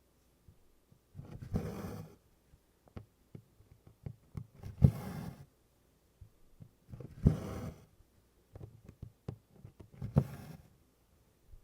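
Needle and cotton floss drawn through 24-count Congress cloth in tent stitch. Four times, a sharp click is followed by a short swish as the thread is pulled through, about every two and a half to three seconds. Faint taps and ticks fall in between.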